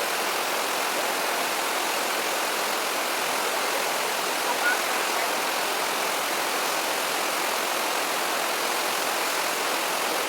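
Steady rushing of flowing stream water, with a brief faint chirp about four and a half seconds in.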